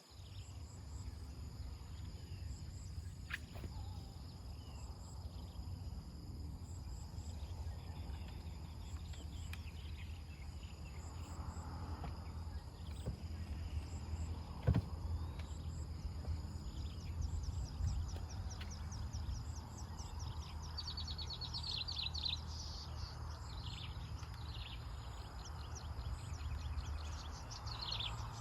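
Outdoor ambience: a steady low rumble under steady high insect drone, with birds chirping, the chirps coming in quick runs from about two-thirds of the way in. One sharp knock about halfway through.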